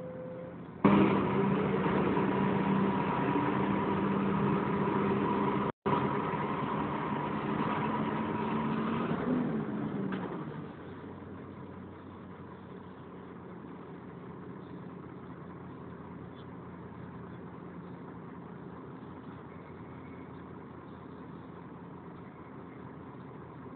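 Volvo B10BLE bus's cooling fan area coming in suddenly about a second in, loud with a steady whine over the engine, then dropping away after about ten seconds to the engine's steady running sound.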